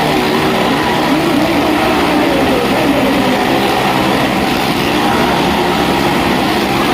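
A car's and motorcycles' engines running together as they circle a well-of-death drum, their pitches wavering up and down without a break.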